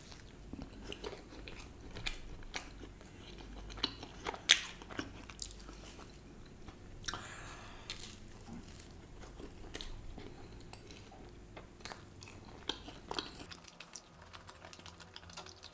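A person biting and chewing a slice of cheese-burst margherita pizza dipped in cheese dip, close to the microphone, with irregular wet mouth clicks and smacks.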